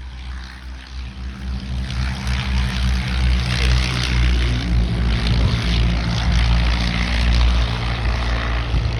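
Piston engines of vintage propeller aircraft in formation, growing louder over the first few seconds and then holding loud and steady as they pass.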